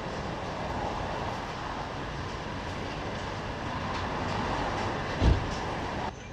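Mercedes-AMG CLA45 on the move, a steady rumble of road and drivetrain noise with no clear exhaust note, and one short low thump about five seconds in. The noise drops off just before the end.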